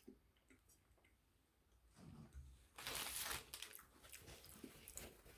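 Faint sounds of a person biting into a microwaved cheeseburger slider and chewing, beginning about two seconds in after near silence, with the loudest bite about three seconds in.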